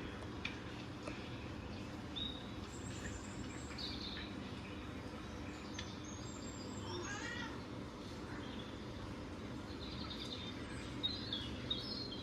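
Scattered short, high bird chirps over a steady low background hum, with a longer wavering call about seven seconds in.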